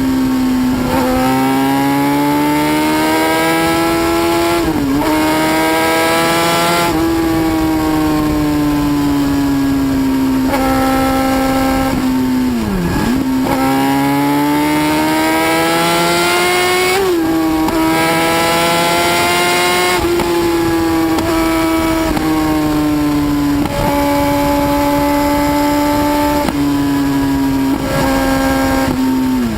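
High-speed motorcycle engine revving hard at a high, steady pitch, with a brief dip in pitch every few seconds like a gear change before it climbs again.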